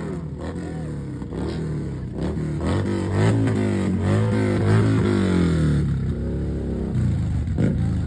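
Car engines running and revving, their pitch rising and falling. Through the middle several engines sound at once, then the revving eases off near the end.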